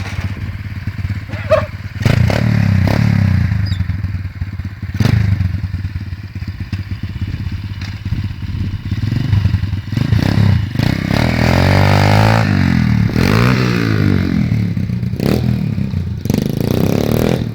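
90 cc pit bike engine running and revved, its pitch rising and falling several times in the second half, with clattering knocks throughout, heard through a phone's microphone.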